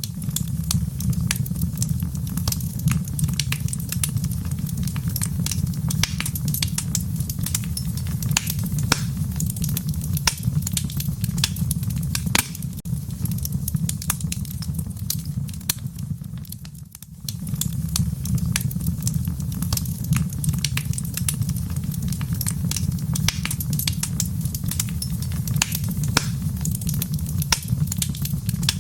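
Fire burning in a fireplace: dense, irregular crackling and popping over a steady low rumble. The sound dips briefly about 17 seconds in, then fades back in.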